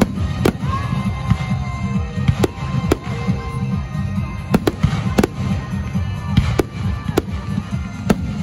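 Fireworks display: about a dozen sharp bangs from bursting aerial shells at irregular intervals, over a steady low rumble.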